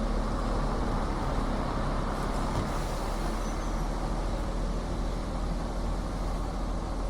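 Timber truck's engine running with steady road noise while driving, a low even hum.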